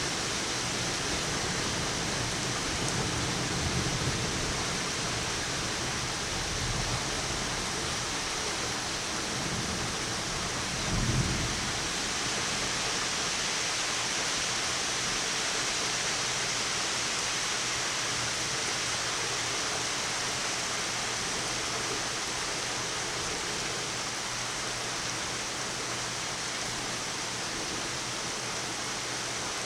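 Steady rain hissing down in a severe thunderstorm, with low thunder rumbling through the first dozen seconds and swelling briefly about eleven seconds in before dying away.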